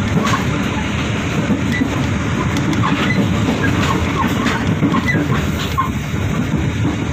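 Inside a moving passenger coach: the steady rumble of the train running on the rails, with scattered clicks of the wheels over the track.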